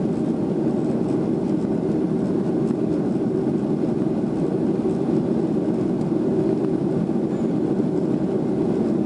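Steady cabin noise of a Boeing 737-400 under way, the even rumble of its CFM56-3 turbofan engines and the rush of air, heard from inside the passenger cabin.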